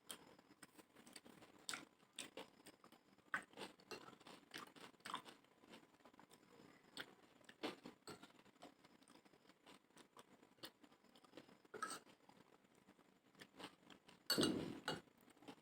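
A person chewing chotpoti, a chickpea snack with crunchy bits, with many short scattered clicks and crunches. One louder noise of about half a second comes near the end.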